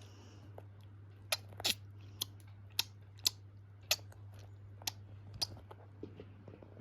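Eurasian tree sparrow chick pecking at rice grains with its beak: about eight sharp, irregular clicks and cracks over a low steady hum.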